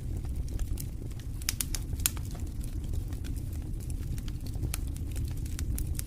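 Campfire crackling, with frequent sharp pops and snaps of burning wood over a low, steady rumble.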